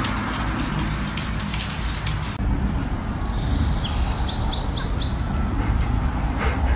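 Crackly noise, then after an abrupt change a bird chirps once and a few seconds later gives a quick run of four short, high chirps, over a steady low rumble.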